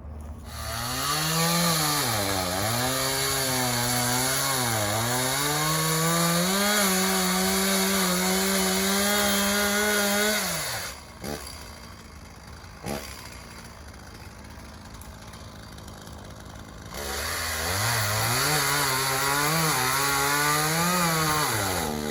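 Chainsaw engine running at high revs, its pitch sagging and recovering twice before holding steady. About ten seconds in it drops back to a quiet idle, with a couple of clicks, and then revs hard again for the last five seconds or so.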